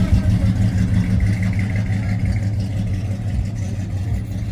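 A car engine running at a steady idle with a deep low rumble, getting slightly quieter over the few seconds.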